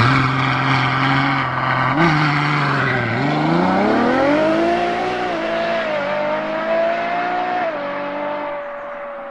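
Ferrari FF's V12 engine running, steady at first, then climbing in pitch as it accelerates from about three seconds in. It holds high and drops back near the end as the sound fades.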